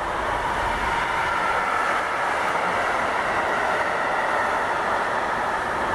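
Container freight train wagons rolling past at speed: a steady rumble of wheels on the rails, even throughout.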